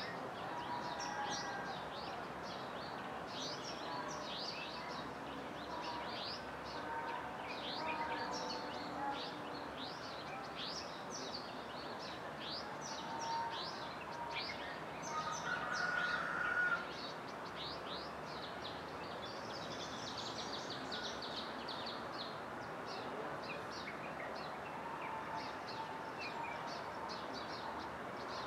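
Birds chirping, many short downward-sweeping chirps repeating throughout, over a steady background hiss of outdoor ambience. The sound swells briefly about halfway through.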